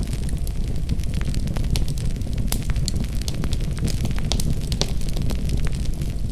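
Wood fire crackling in a fireplace: a steady low rumble of the burning logs with irregular sharp pops and snaps, several a second.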